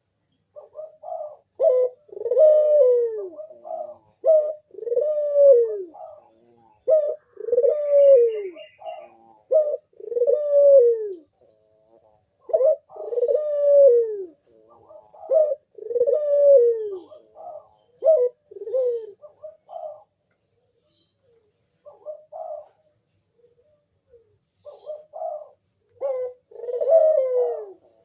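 Puter dove cooing in a vigorous calling series (manggung): low coos, each phrase ending in a falling tail, repeated about every second or so, with a pause of a few seconds late on before it starts again. This is the display call that draws other puter doves to answer.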